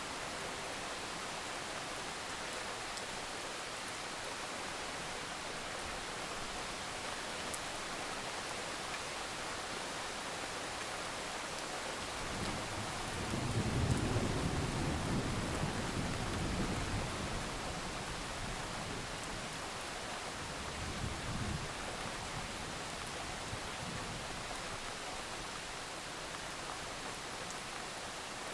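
Steady rain falling, with a low roll of distant thunder that swells about halfway through, peaks and dies away over several seconds, followed by a fainter rumble a few seconds later.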